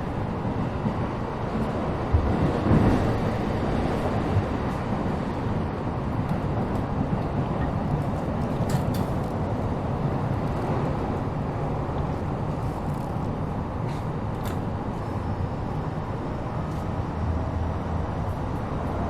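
Running sound inside a JR East E233-7000 series electric commuter train: a steady rumble of the wheels and car body, with a few knocks early on and some faint high clicks. A steady low hum comes in near the end.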